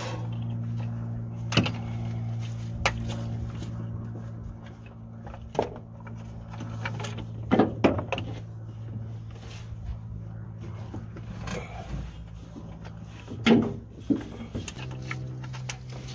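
Hand tools and parts knocking and clinking against metal several times while spark plug wires are fitted in a truck's engine bay, over a steady low mechanical hum.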